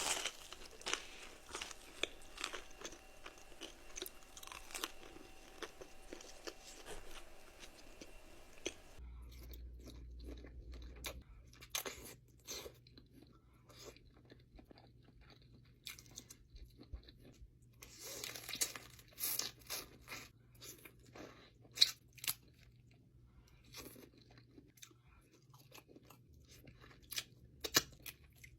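A person eating close to the microphone: moist chewing broken by many sharp crunchy bites into crispy food. The loudest crunches come in the second half, and a faint steady low hum sits underneath from about nine seconds in.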